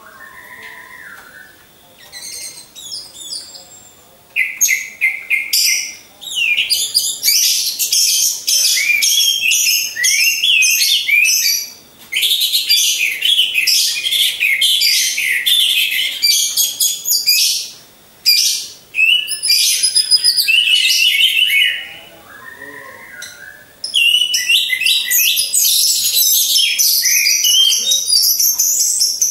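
Orange-headed thrush singing loudly in long runs of rapid, varied high phrases, with short breaks between runs. A fainter, lower call sounds at the start and again about 22 seconds in.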